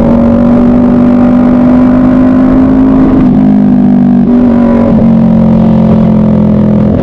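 Onboard sound of a racing motorcycle's engine at speed on track, its pitch climbing slowly and then dropping in steps a little past halfway as the revs come down, with wind noise rumbling underneath.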